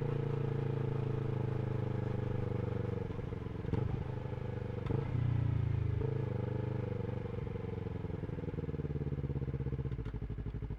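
Yamaha R3 parallel-twin engine through an Akrapovič slip-on exhaust, running at steady low revs with two short knocks about four and five seconds in. Near the end it drops to an evenly pulsing idle.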